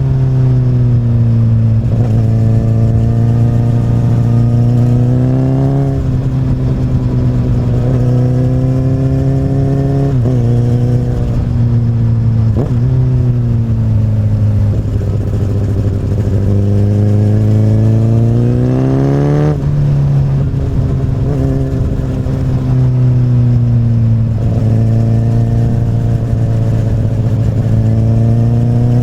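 2008 Honda CBR1000RR's inline-four running through an Akrapovic carbon slip-on exhaust while being ridden. The engine note repeatedly climbs in pitch under throttle, then drops back as the rider eases off or changes gear, about half a dozen times.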